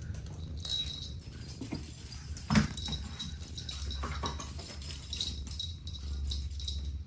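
Kittens playing: light scuffling and tapping of paws, with one louder thump about two and a half seconds in, over a low steady rumble.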